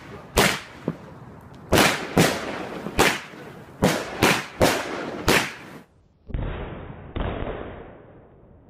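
Aerial fireworks bursting: a quick run of about eight sharp bangs over the first five seconds or so. After a brief gap come two duller booms that trail off.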